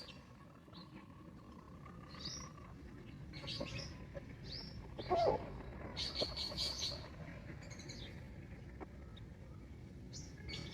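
Chickens calling: short, high chirps from chicks come and go throughout, and a louder, lower call about five seconds in is typical of a hen.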